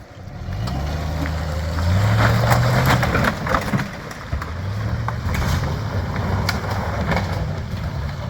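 Old GMC Z71 pickup's engine pulling under load off-road: it speeds up and rises in pitch from about half a second in, eases off briefly near four seconds, then pulls again. Knocks and rattles come through it as the truck drives over rough ground.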